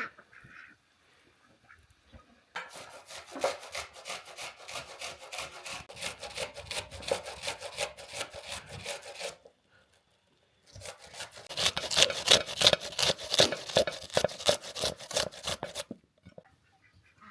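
Rapid rhythmic scraping or rubbing strokes, several a second, in two runs of several seconds each with a short pause between; the second run is louder.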